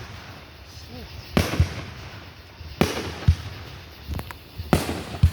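Aerial firework shells bursting overhead: a series of booms, roughly one every second or two, some in quick pairs, each trailing off in a short rumble.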